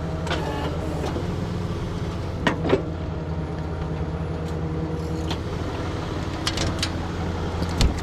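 A vehicle engine idling steadily, with a few short clicks and knocks over it.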